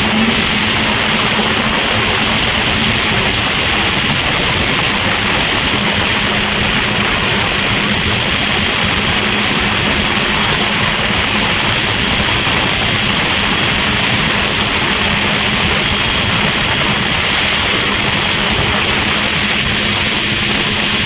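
Snowmobile's Rotax 503 two-cylinder two-stroke engine running loud and steady, holding one even pitch with no revving.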